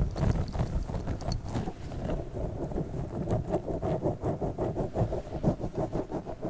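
A giant spiky orbeez-filled squishy ball being handled fast: a dense, irregular run of soft taps and squishes, several each second.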